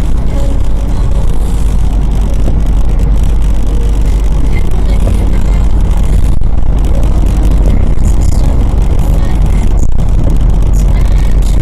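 A car driving, heard from inside the car: steady, loud low rumble of engine and road noise.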